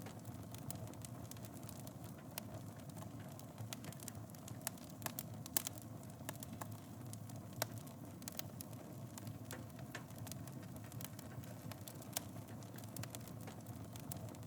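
Wood fire burning in a fireplace: a steady low rumble of the flames with irregular crackling and occasional louder pops.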